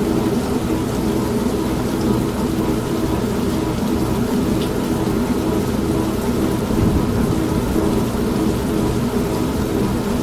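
An old washing machine running with a steady motor hum, mixed with continuous rain and a low rumble of thunder.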